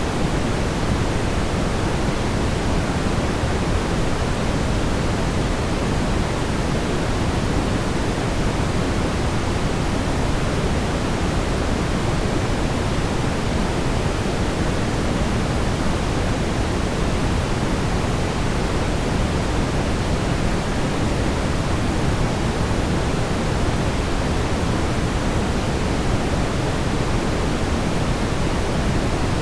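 Steady brown noise: a constant low, rumbling hiss, heaviest in the bass and falling off toward the treble, with no changes.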